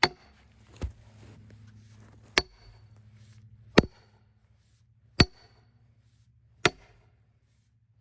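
Splitting maul striking a wedge driven into a cedar log: about six blows roughly a second and a half apart, most with a bright metallic ring.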